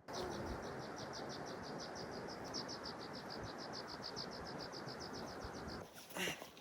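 Cricket chirping in a fast, even pulse of about seven chirps a second over a steady low hiss, cutting off abruptly about a second before the end.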